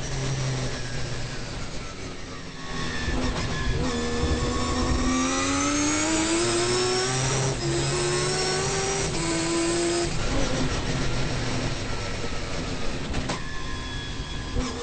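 Mazda RX-7 race car's turbocharged 20B three-rotor rotary engine, heard from inside the car. It eases off briefly, then accelerates hard with a steeply rising pitch, upshifts twice about a second and a half apart, and lifts off about ten seconds in.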